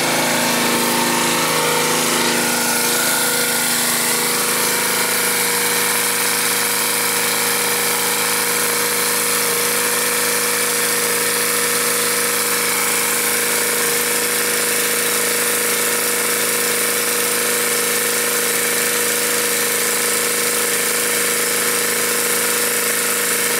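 Pressure washer running steadily, its engine drone under a constant high hiss.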